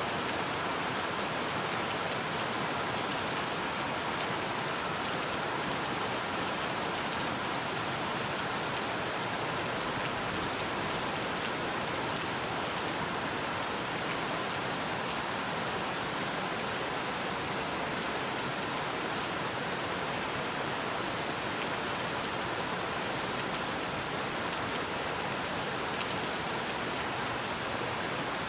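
Steady, even rain falling, with faint scattered ticks of individual drops.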